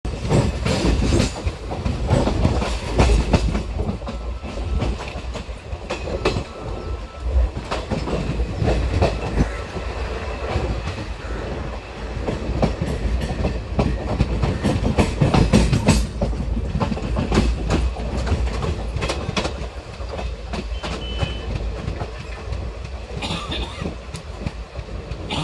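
Sealdah–Agartala Kanchanjunga Express passenger coach running along the track, heard from its open doorway. There is a steady rumble with wheels clattering over the rail joints in irregular knocks.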